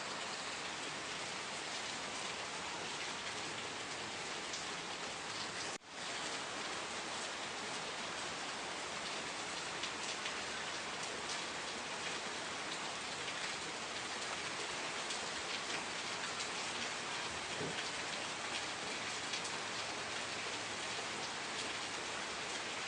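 Steady rain falling, a dense even hiss of drops, with a brief sudden drop-out about six seconds in.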